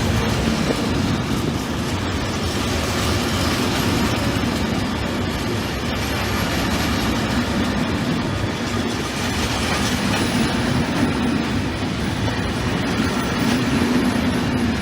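Train rolling along the track: a steady, continuous noise of wheels on rails and moving railcars.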